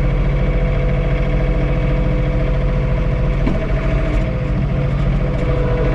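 John Deere 3046R compact tractor's three-cylinder diesel engine running steadily, heard from inside the cab, with a steady whine over the drone.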